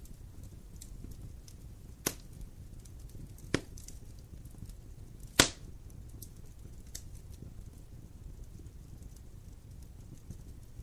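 Wood fire burning with a low steady rumble and faint crackles. Three sharp pops stand out, about two, three and a half and five and a half seconds in, the last the loudest.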